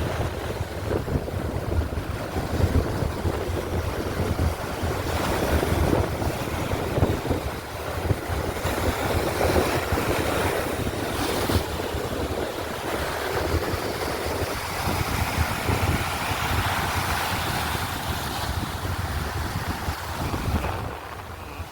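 Sea waves washing onto a sandy beach in a steady wash that swells and ebbs, with wind buffeting the microphone as a low rumble underneath.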